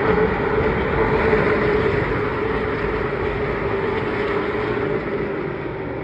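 Pro late model stock cars racing past at speed, their V8 engines running hard at full throttle; the sound is loudest early and fades a little after about five seconds as the cars move away.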